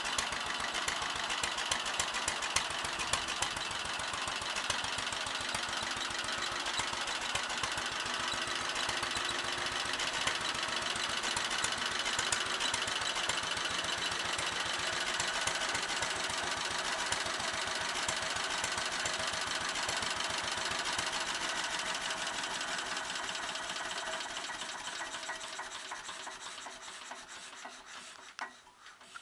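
Bernard engine running at a steady speed with rapid, even firing, then slowing and dying away a few seconds before the end as it shuts down.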